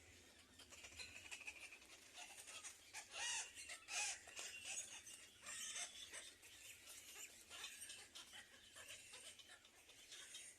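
Faint bird chirps and cheeps, clustered about three to six seconds in, among light clicks and rustles.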